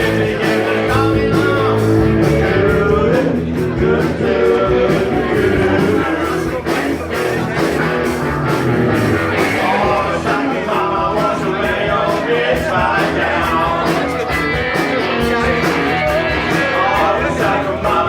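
Live rock band playing, with electric guitar over a steady drum beat.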